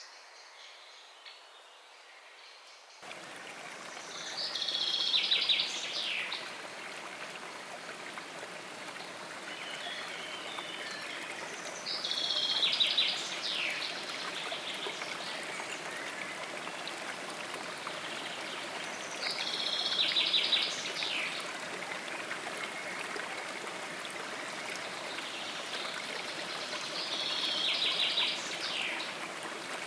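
Running stream, a steady rushing of water that comes in about three seconds in. Over it a songbird repeats the same short trilled phrase four times, about every seven to eight seconds.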